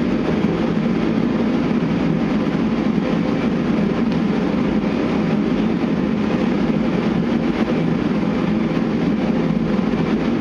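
A steady, even mechanical noise with no rhythm or pitch, heaviest low down, that runs unchanged throughout.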